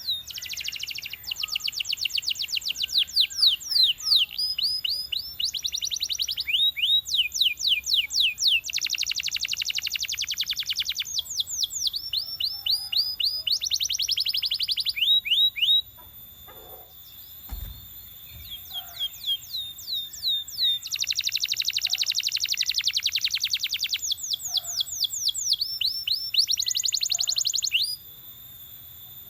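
Belgian canary singing in long runs of rapid repeated whistled notes and trills, breaking off for a few seconds midway before starting a new run. A single low thump sounds in the pause.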